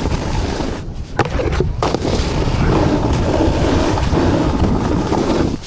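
Skis or snowboard sliding and scraping over snow at speed, with wind rushing over the camera microphone. There are brief quieter gaps about a second in and again near the end.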